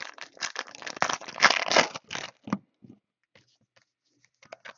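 Plastic card-box or pack wrapping being crinkled and torn open by hand, most intense in the first two seconds, then only a few light rustles and clicks.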